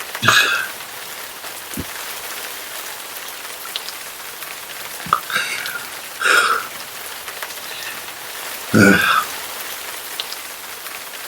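Steady rain hiss, broken four times by short throaty vocal sounds from a man, the loudest near the end.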